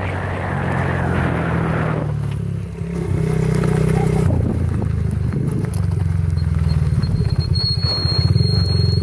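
Small 50cc motorbike engine running while carrying two riders, its pitch shifting with the throttle, with wind noise over the first two seconds. In the second half it settles into a slower, chugging beat.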